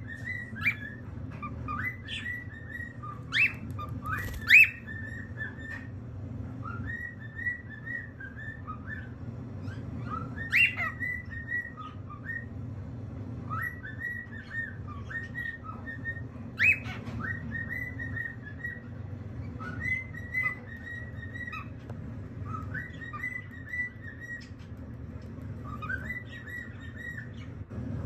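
Cockatiel chirping and whistling: a running string of short whistled notes at much the same pitch, broken by a few louder, sharper calls, over a steady low hum.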